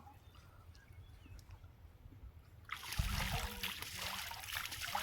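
Water splashing and trickling. It starts suddenly a little under three seconds in and carries on after a quieter start.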